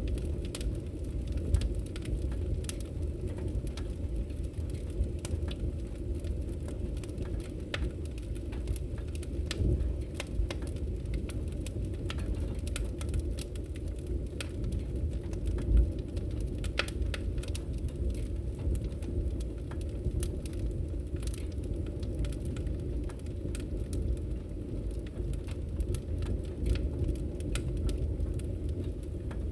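Campfire burning: a steady low rumble of flames with frequent irregular crackles and pops, one sharper pop about sixteen seconds in.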